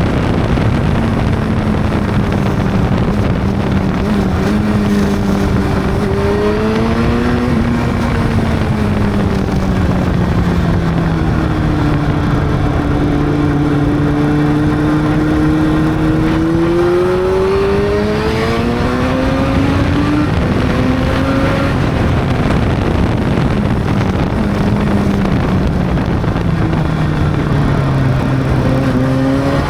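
Honda CB600's inline-four engine running under way. Its pitch rises and falls gently with the throttle: it sinks to its lowest about halfway through, climbs sharply around two-thirds in, drops again, and starts rising near the end.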